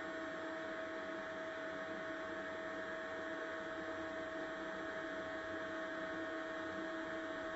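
Steady electrical hum with a fixed high whine from the running generator and solar inverter setup, unchanging throughout as the generator connects up to the system.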